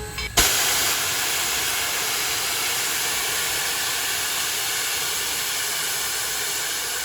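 Steam locomotive #148 venting steam: a loud, steady hiss that starts suddenly about half a second in.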